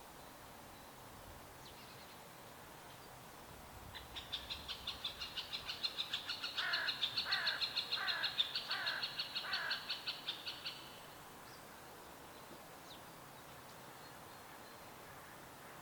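Birds singing: a rapid series of high notes, about five a second, lasting roughly seven seconds. In its middle come five lower notes that each fall in pitch. Under it all is a faint steady hiss.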